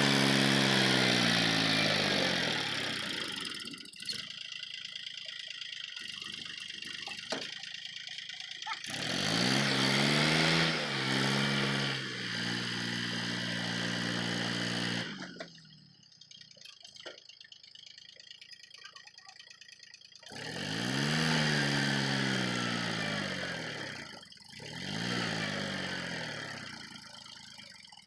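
Diesel tractor engine revved hard in repeated surges, about four times, its pitch sweeping up and down, dropping back to low running in between. These are the strained revs of a tractor with a sand load stuck in a river.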